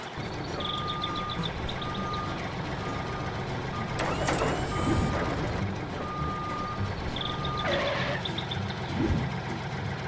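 Tractor-and-trailer sound effects: a reversing alarm beeping steadily about once a second over a low engine rumble, with a short hiss about four seconds in.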